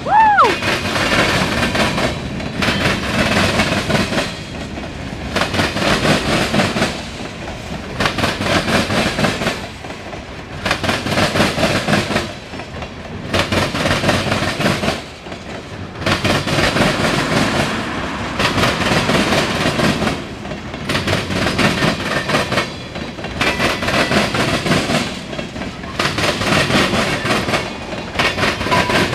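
Freight cars of a passing mixed freight train rolling by close, wheels clattering over the rail joints in a clickety-clack that swells and fades about every two seconds as each car's wheel sets go past. A brief falling squeal right at the start.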